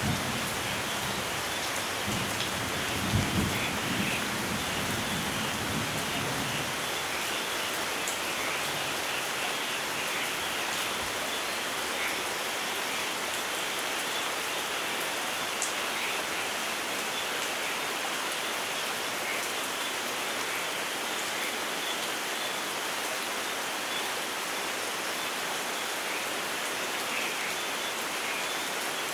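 Steady rainfall, an even hiss of rain. A low rumble of thunder swells about three seconds in and dies away by about seven seconds.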